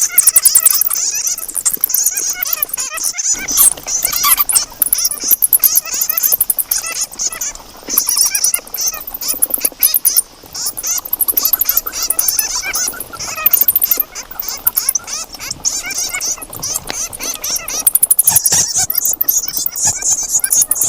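Bats chattering: a dense stream of rapid, high-pitched clicks and squeaks, with scattered harsher squeals in between.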